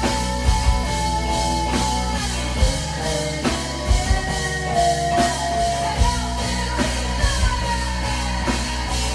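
Live rock band playing: drum kit beating a steady pattern over deep bass and guitar, with a long held note that bends downward about halfway through.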